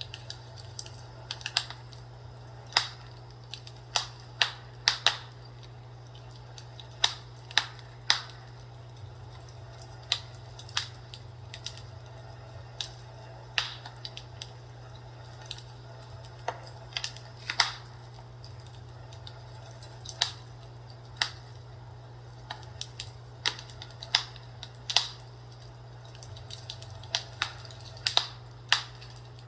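Fireplace crackling: irregular sharp pops and snaps, sometimes several in quick succession, over a steady low hum.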